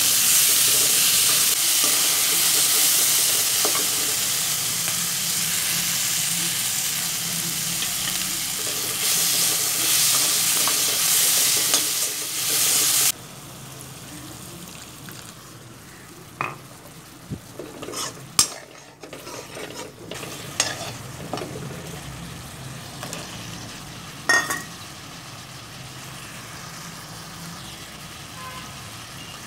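Capsicum, tomato and onion sizzling loudly in a steel kadai while being stirred with a slotted steel spatula. About thirteen seconds in, the sizzle cuts off abruptly. After that there is quieter cooking with scattered scrapes and clicks of the spatula against the pan.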